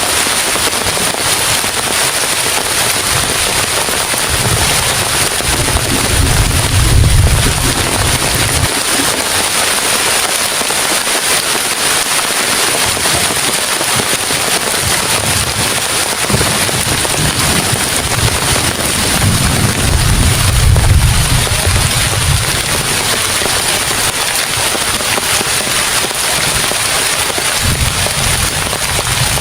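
Heavy rain falling hard and steadily, with a deep low rumble swelling up and fading away three times: about five seconds in, around the twenty-second mark, and near the end.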